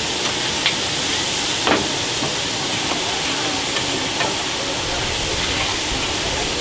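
Rice noodles frying in several large iron woks at once: a steady sizzle, with a metal spatula scraping and now and then clinking against the pans, the sharpest clink a little under two seconds in.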